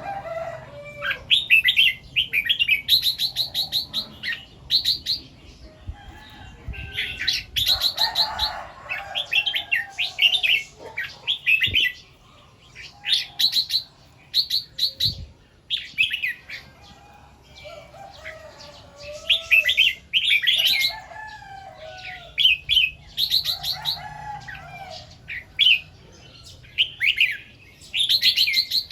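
Red-whiskered bulbuls singing: short, quick warbled phrases repeated every second or two, with quieter, lower bird calls in between.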